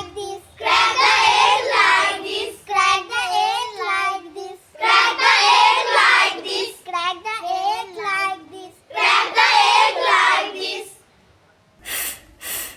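Child singing a phonics song in several short phrases, followed near the end by a pause and a few short, sharp sounds.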